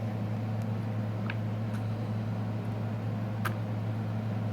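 Steady low hum, with a few faint light clicks from small tools and phone parts being handled, the clearest about three and a half seconds in.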